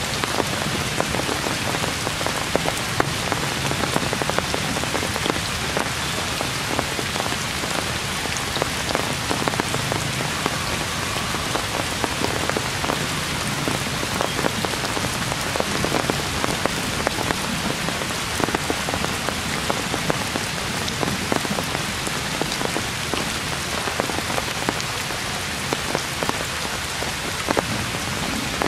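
Heavy rain falling steadily: a dense, even hiss with many sharp drop hits.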